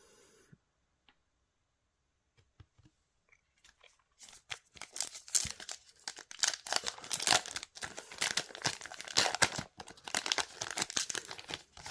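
Trading card booster pack wrapper being torn open and crinkled by hand, a dense crackling that starts about four seconds in after a few faint ticks.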